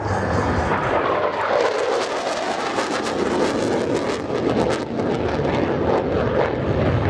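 F-16 Fighting Falcon jet engine roaring past on a high-speed flyby, its pitch sliding down as it goes by, with a ragged crackle in the roar.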